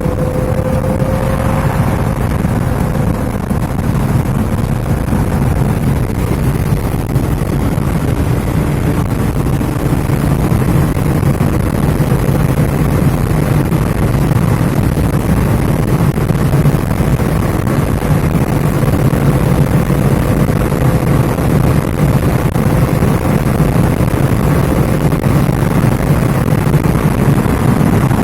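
Lada Priora's 1.6-litre 16-valve four-cylinder (VAZ-21126) running under way, its exhaust fitted with a short four-into-one header and an insert in place of the catalytic converter, together with tyre and road noise. A steady low drone that grows slightly louder over the stretch.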